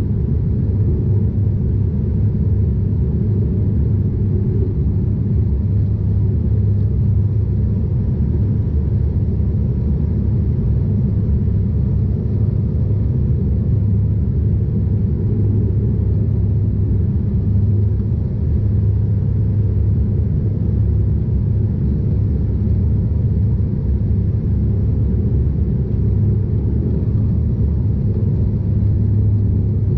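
Steady cabin drone of a Bombardier DHC8-Q400 turboprop in flight: the low hum of its six-bladed propellers over engine and airflow rumble.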